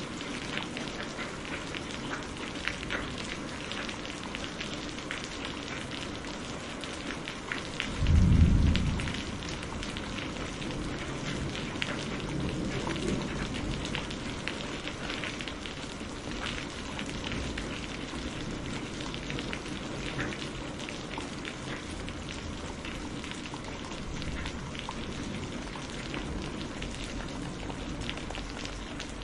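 Heavy rain falling steadily, a dense hiss of drops. About eight seconds in comes a short, loud, deep clap of thunder, followed a few seconds later by a fainter low rumble.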